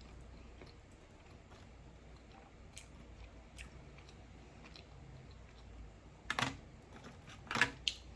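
Close-miked eating sounds: quiet chewing clicks, then two louder bursts of crackly crunching, about six and seven and a half seconds in, as fried diner food is chewed.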